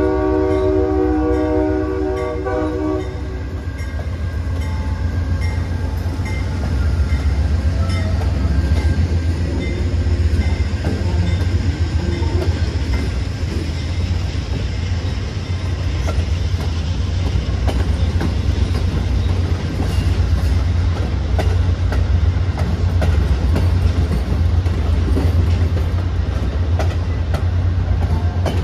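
Amtrak train's horn sounding a multi-note chord that cuts off about three seconds in, then the train passing close by with a steady low rumble and the clicking of wheels over rail joints.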